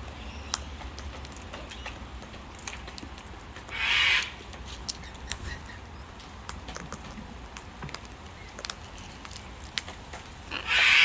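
Two short, harsh squawks from wild birds at a feeding spot, about four seconds in and again near the end, over scattered light clicks.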